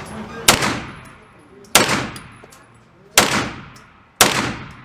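Four single gunshots about a second or so apart, each sharp crack trailing off in a short echo.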